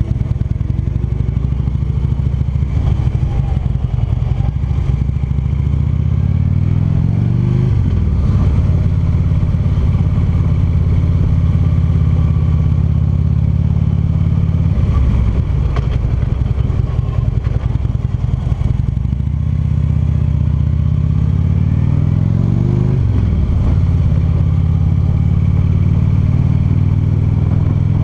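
Touring cruiser motorcycle engine running under way. Its note climbs as the bike accelerates and drops back sharply at a gear change, once about eight seconds in and again about five seconds before the end.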